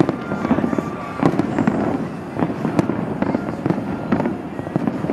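Fireworks display going off in quick, irregular succession: a dense run of bangs and crackles from aerial shells and rooftop effects. A steady high whistle sounds through about the first second.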